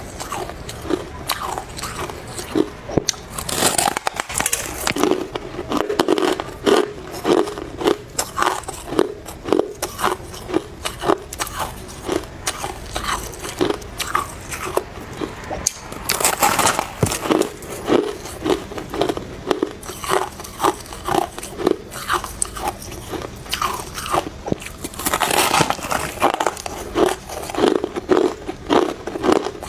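Close-miked biting and chewing of soft white freezer frost: a steady run of short, crisp crunches, with a few louder, fuller bites in between.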